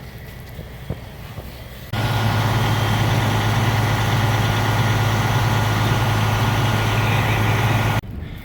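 A heavy engine running steadily at idle, loud and close, with a deep hum. It starts abruptly about two seconds in and cuts off abruptly shortly before the end.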